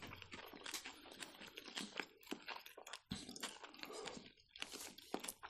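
Faint close-up chewing of sushi rolls: soft, irregular wet mouth clicks and small crunches.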